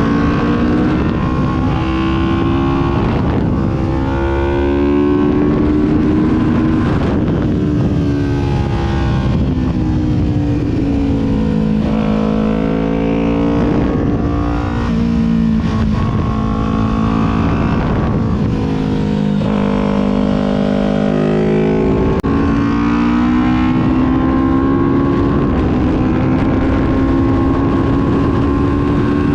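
Kawasaki Ninja 400's parallel-twin engine heard on board while riding. The engine note repeatedly climbs under throttle and then drops sharply every few seconds as the rider shifts gears and rolls off the throttle.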